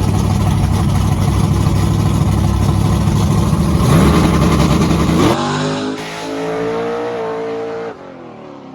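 Car engine running hard at high revs, climbing in pitch about four seconds in. It drops off suddenly a second later and winds down, fading near the end.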